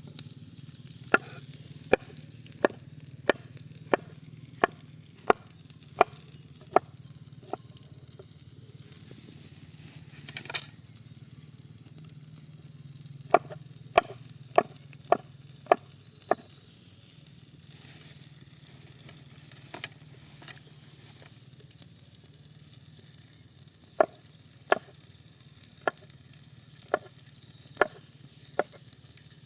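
Knife chopping on a cutting board: sharp, evenly spaced strokes about one and a half a second, in three runs separated by pauses, over a faint steady background.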